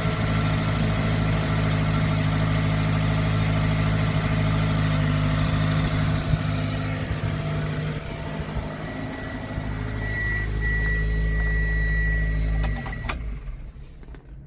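1995 Subaru Sambar mini truck's four-cylinder engine idling steadily, then switched off near the end, with a few clicks as it stops.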